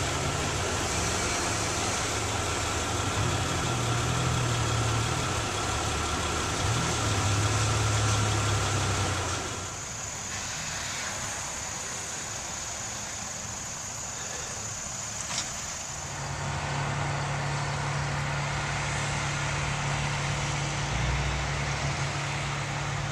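Steady engine hum like vehicles idling, with the sound changing abruptly about ten and sixteen seconds in.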